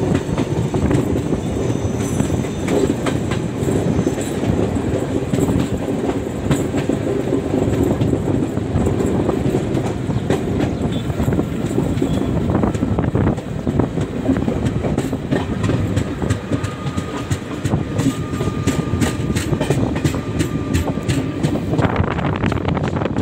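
Passenger coach of an Indian Railways express running on the rails, heard from onboard: a steady rumble with the clickety-clack of wheels over rail joints. The clicks come thicker and faster in the second half.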